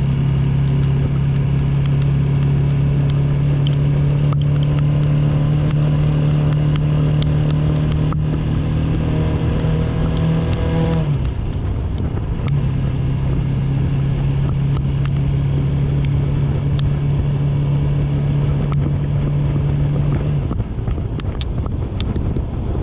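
AKT GP 180 motorcycle engine running while riding, with wind rushing over the microphone. Its pitch creeps up over the first ten seconds, dips sharply about eleven seconds in, then holds steady again until the throttle eases off near the end.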